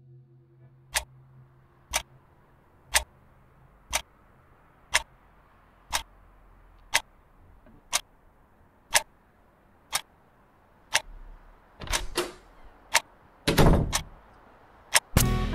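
Mechanical alarm clock ticking, one sharp tick a second. Near the end there are a couple of louder, noisier bursts among the ticks.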